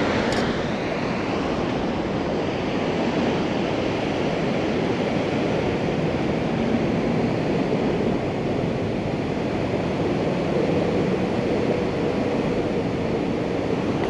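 Steady rushing of water through the dam, an even, unbroken noise with no breaks.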